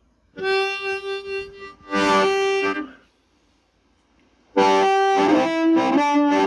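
Harmonica played through a small Fender Squier SP-10 guitar practice amp: a short phrase of held and changing notes, a pause of about a second and a half, then playing starts again.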